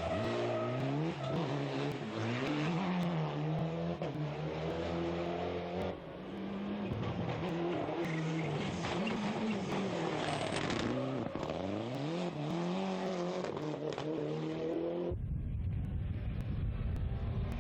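Rally cars' engines revving hard and dropping back again and again through gear changes as they drive the stage, with an abrupt switch to another car about six seconds in. Near the end the engine fades under a deep, steady low rumble.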